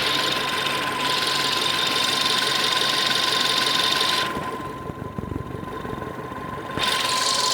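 Automatic transmission whistling in Park while the engine idles: a steady high-pitched whistle over the idle. A hiss above it cuts out for about two and a half seconds in the middle, then comes back.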